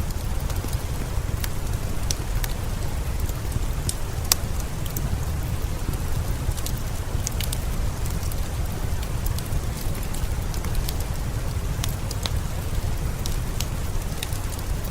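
Steady rain mixed with a crackling wood fire: a constant low rush dotted with sharp pops and crackles, one louder pop about four seconds in.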